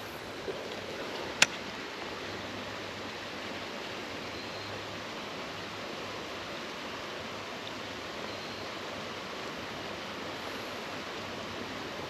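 Creek water running steadily, with one sharp click about a second and a half in.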